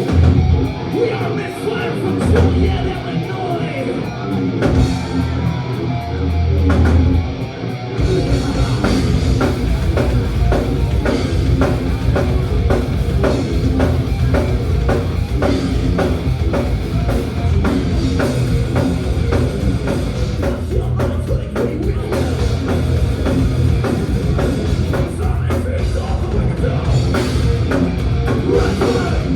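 Thrash metal band playing live with distorted guitars, bass and drum kit. For about the first eight seconds the band plays a stop-start riff of heavy accented hits, then it drives into a fast, dense full-band section.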